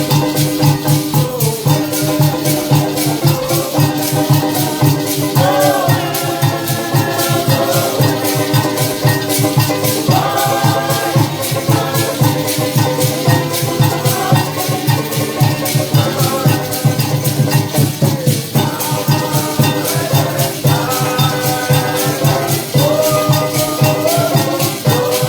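Parang band playing live: a fast, steady maraca rhythm over a bass line and a shifting melody.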